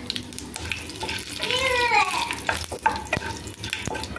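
Panch phoron spices and dried red chillies sizzling and crackling in hot oil in a non-stick kadai, stirred with a wooden spatula that clicks against the pan. A brief pitched sound, falling in pitch, comes about a second and a half in.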